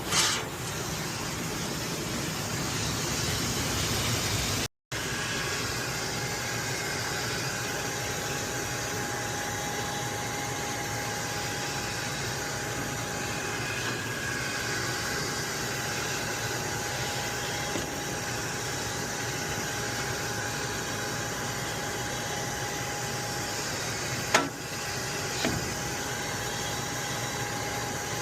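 Steady noisy drone of running HVAC machinery with a faint steady hum tone over it, broken by a brief dropout about five seconds in. Near the end, two sharp clicks come about a second apart.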